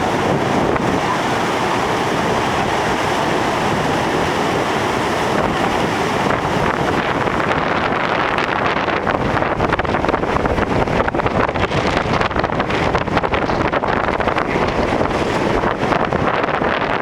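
Heavy surf and strong hurricane wind, with gusts buffeting the microphone more and more from about halfway through.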